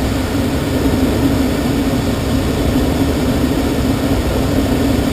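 Steady rush of air around a glider's cockpit in engineless gliding flight after release from tow: a low rumble with a steady drone.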